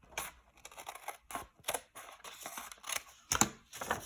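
Scissors cutting through a sheet of paper: a string of short, irregular snips, loudest a little past three seconds in.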